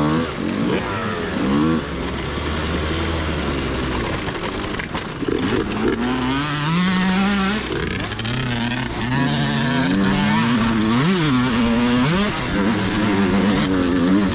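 Dirt bike engine revving up and down repeatedly, its pitch climbing and dropping with throttle and gear changes.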